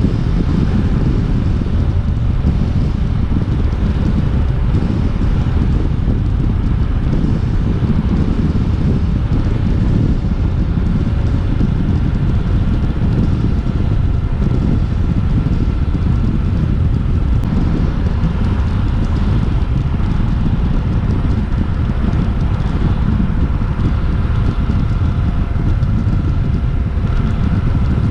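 Heavy wind rush on the microphone over the steady drone of a Suzuki V-Strom 800DE's parallel-twin engine, held at a constant cruising speed.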